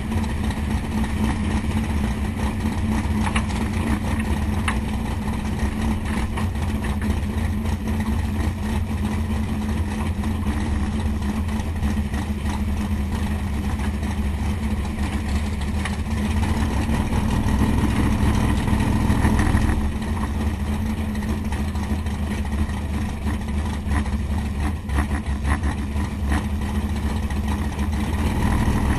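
468 cubic-inch big-block Chevy V8 idling steadily. About seventeen seconds in it swells a little louder, then drops back abruptly near twenty seconds and settles into the same idle.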